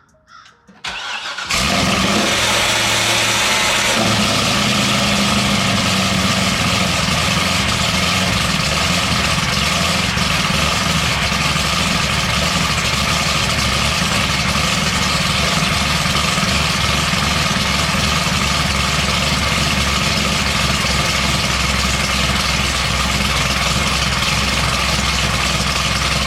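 Corvette V8 cranking and catching about a second in, then running at a loud, steady, choppy idle.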